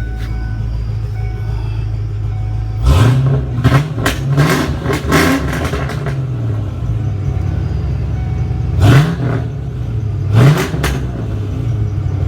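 Ford Mustang 5.0 V8 through an SLP Loudmouth exhaust, idling with a deep steady burble, then blipped several times from about three seconds in, each rev rising sharply and dropping back. Two more single revs follow near the end. The exhaust note is loud.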